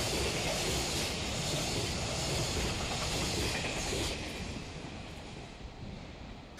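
Container freight train running past on the rails, a steady wheel-and-rail rumble and hiss that falls away about four seconds in and keeps fading as the train moves off.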